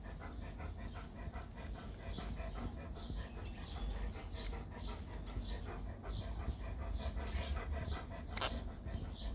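Quaker parrot's beak nibbling and cracking pepper seeds: a rapid run of small clicks and crunches, with a few sharper cracks near the end.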